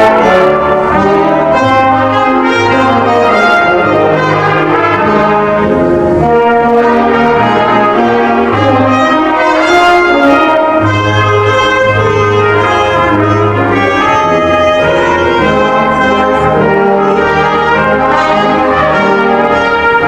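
Brass ensemble playing music in full held chords over a low bass part.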